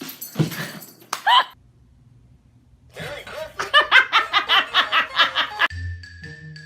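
A person laughing hard in a quick run of repeated bursts, after a short vocal sound a few seconds earlier. A light musical jingle with steady notes starts near the end.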